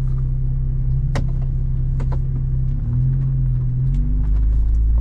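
Jeep Wrangler driving slowly on a dirt road: the engine drones steadily, dips in pitch about three seconds in and then climbs. A few sharp knocks and clicks sound over the top.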